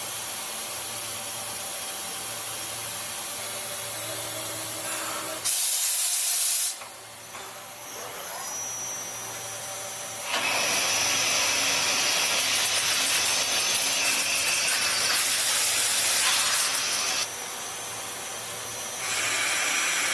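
DN Solutions DNX 2100 CNC turn-mill center machining metal: loud hissing from cutting and coolant that comes in stretches, starting and stopping abruptly. A thin high whine runs through the longest stretch, over a low steady hum.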